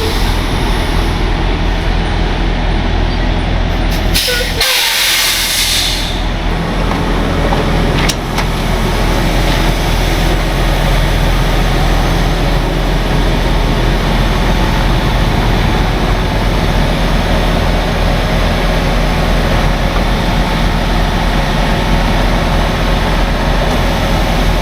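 Heavy tow truck's diesel engine running steadily as the truck pulls forward, with a loud hiss of air from the air brakes being released about four seconds in.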